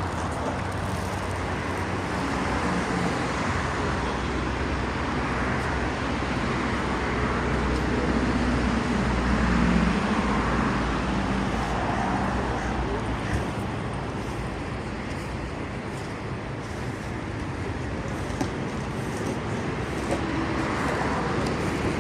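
Steady road traffic noise, with a vehicle engine hum, a little louder about halfway through.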